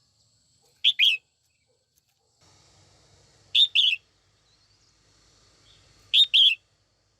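Female red-whiskered bulbul calling: three short, loud two-note chirps, evenly spaced about two and a half seconds apart.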